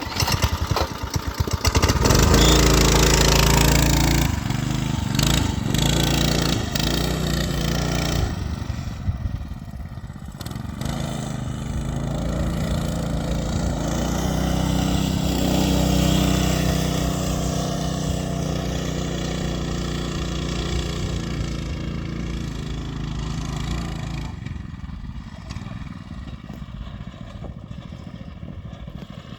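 Coleman B200 mini bike's small engine, fitted with a torque converter, revving hard and labouring under load on a steep hill climb. It is loudest for the first few seconds, dips, runs steadily under strain, then drops to a lower, quieter speed near the end as the bike fails to make the climb.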